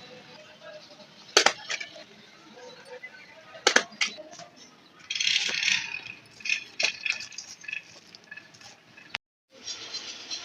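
Household handling noises: a few sharp clicks and clinks of small objects being set down, with a short rustling stretch about five seconds in.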